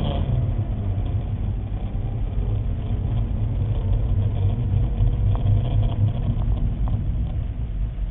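Car engine running with a steady low road rumble.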